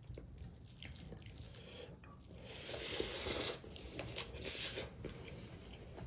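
Close-miked mukbang eating sounds: chewing and biting with small wet clicks, and a louder wet, noisy stretch about halfway through.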